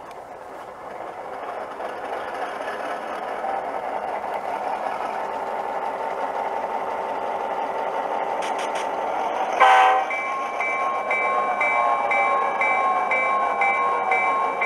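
Soundtraxx Econami sound decoder in an HO scale GP7 playing diesel locomotive sounds through its small speaker; the engine sound builds over the first few seconds as the model pulls away. About ten seconds in a horn sounds: still the decoder's five-chime horn, because the new horn setting has not taken. After it a bell rings at a steady pace.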